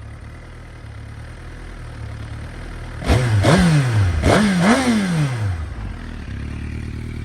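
2009 Suzuki GSX-R1000's inline-four engine idling, then revved in two quick throttle blips about three and four seconds in, each falling back to a steady idle.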